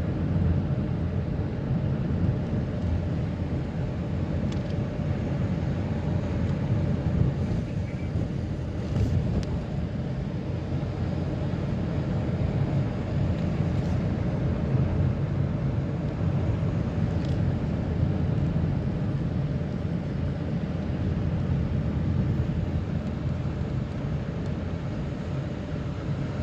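A vehicle driving steadily along a road: a constant low engine and road rumble with a steady hum running through it.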